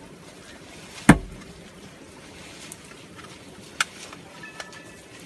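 Steady hiss of heavy rain, with one loud thump about a second in and a few lighter knocks after it.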